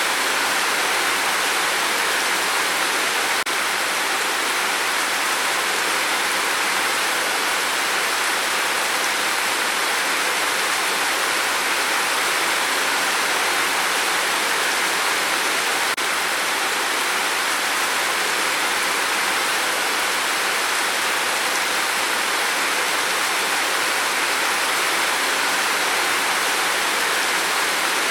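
Steady rain falling on a tin roof, an even hiss with no single drops standing out.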